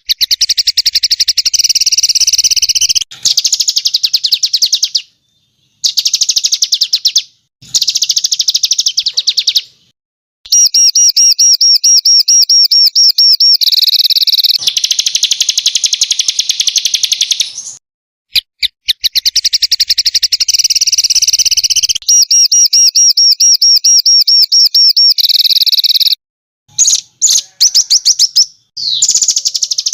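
Masteran recording of small songbirds singing loud, rapid-fire, harsh trills and chattering runs. The phrases last a few seconds each, with short silent gaps between them.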